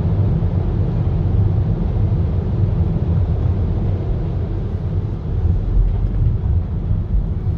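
Steady low rumble of a car driving, engine and tyre road noise heard inside the cabin.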